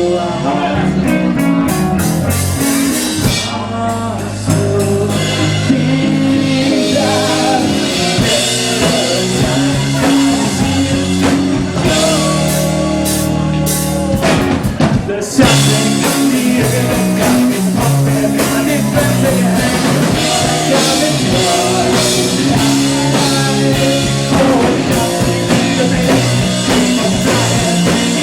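Live rock band playing a song: electric guitar, bass and drum kit, with sung vocals. The playing thins out briefly about halfway through, then the full band comes back in.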